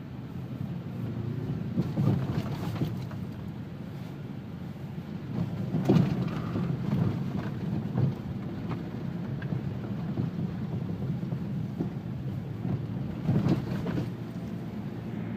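A car driving slowly over a snow-packed street, heard from inside: a steady low road rumble from the tyres and engine, with several louder thumps as the car jolts over the snow, about two, six and thirteen seconds in.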